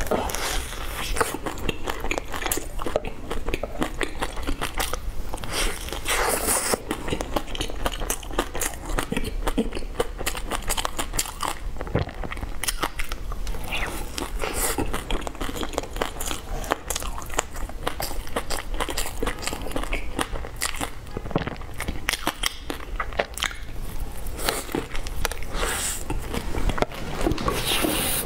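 Close-miked biting and chewing of a soft bun topped with pork floss and seaweed, with a stretchy filling. The mouth makes many small crackling clicks a second, with louder bites now and then.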